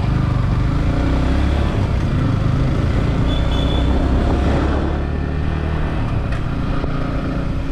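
Yamaha R15 V4's single-cylinder engine running steadily amid road traffic.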